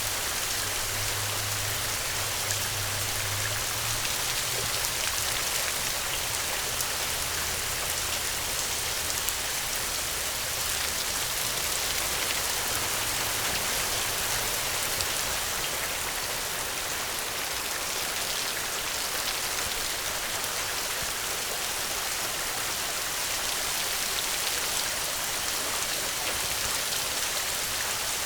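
Steady rainfall: a dense, even patter of raindrops on a surface. A faint low hum sits under it for the first several seconds and returns briefly in the middle.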